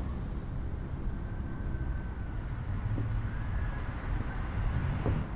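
Steady outdoor background noise, mostly a low rumble, with a faint thin high tone for about a second near the start.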